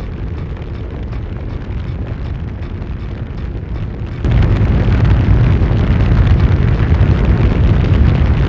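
Loud, steady low rumbling noise that steps up louder about four seconds in.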